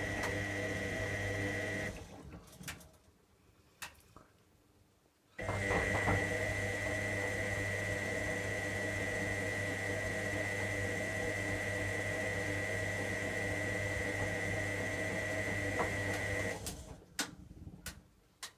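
Electra AWF683 washing machine's drum motor turning the drum in a wash tumble with a steady whine. It stops about two seconds in for a pause of about three seconds, then runs again until near the end. A few light clicks follow once it stops.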